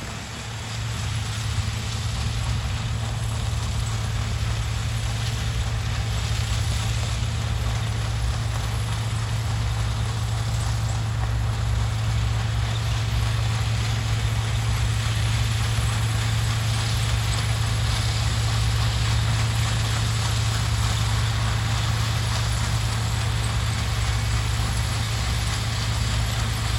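Heavy diesel engine of sugarcane harvesting machinery running steadily with a deep low hum. It grows louder over the first couple of seconds, then holds steady.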